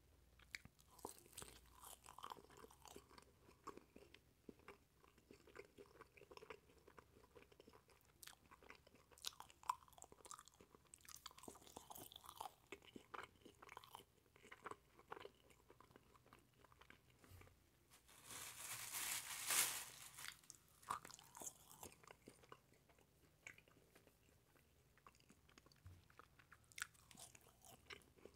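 Close-miked chewing of a toasted marshmallow, with many small wet mouth clicks. A louder noisy rush lasts about two seconds partway through.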